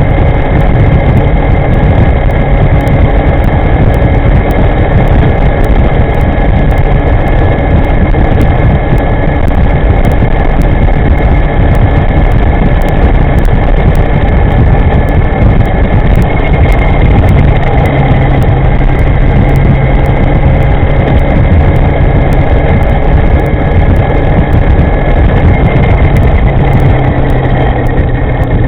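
Steady wind rumble on the microphone and road noise from a moving electric scooter, with faint steady whining tones above it.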